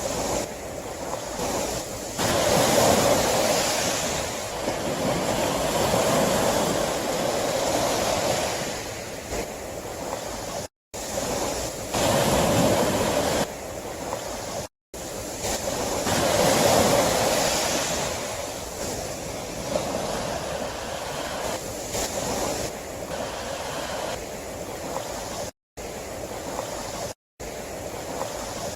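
Sea waves surging and ebbing in swells every few seconds. The sound is cut by a few brief, sudden drop-outs to complete silence.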